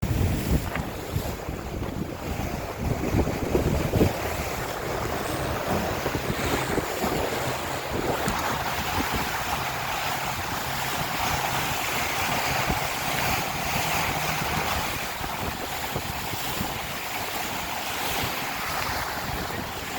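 Wind buffeting the microphone over the steady rush of water along a sailboat's hull. The wind gusts are heaviest in the first few seconds.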